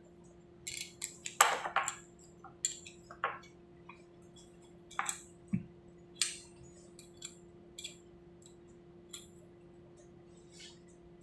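Small metal parts and tools being handled during a pneumatic cylinder repair: irregular light clinks and knocks, the loudest about a second and a half in, thinning out in the second half. A steady low hum runs underneath.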